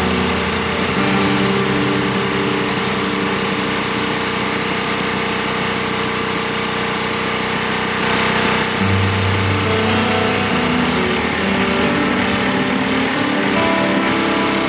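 Drilling rig's engine running steadily: a loud, continuous engine noise.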